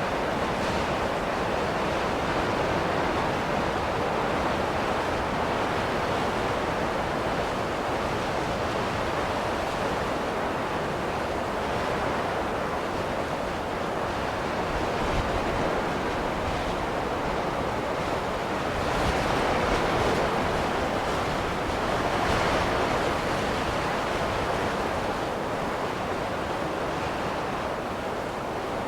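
Steady rushing wind of a snowstorm, with no tones or rhythm, swelling a little about twenty seconds in and easing again.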